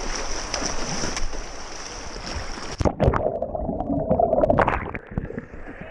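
Kayak on a fast river: rushing whitewater with paddle splashes. About three seconds in, the sound suddenly turns muffled and gurgling, with scattered splashes and knocks.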